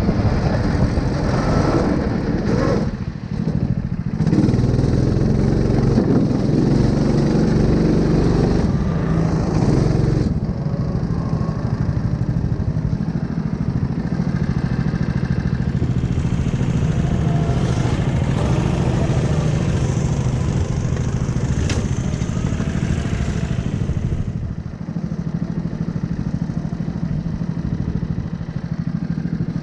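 A 9 hp small engine running steadily. It is louder and busier for roughly the first ten seconds, then settles to an even, lower running note.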